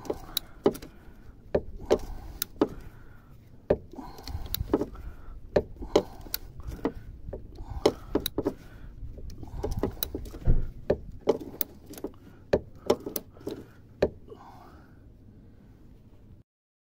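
Citroën Xsara driver's door being worked on its newly repaired hinge, a run of irregular sharp clicks and knocks from the door, latch and hinge.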